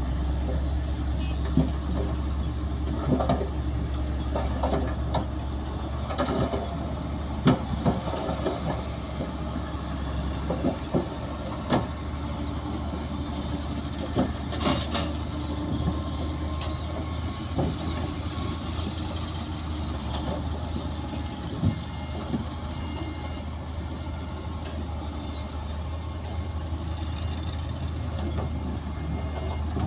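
Heavy diesel engine of a Komatsu D60P bulldozer running steadily at a low pitch, with scattered metallic clanks and knocks throughout.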